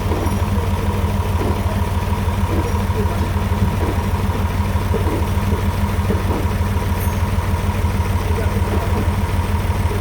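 Sawmill bandsaw's drive motor running with a steady, even hum that holds a constant pitch.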